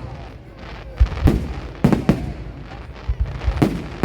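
Aerial fireworks bursting overhead: a run of about seven sharp bangs in loose clusters, each followed by a low rolling rumble as it echoes away.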